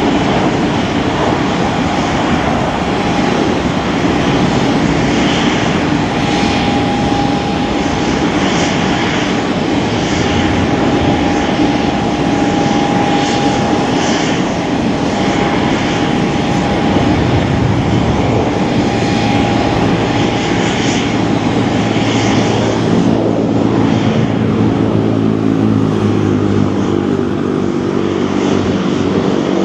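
V-22 Osprey tiltrotor's twin turboshaft engines running after start-up: a loud, deep rumble with a steady high whine. About two-thirds of the way through, a low hum of several steady pitches joins in.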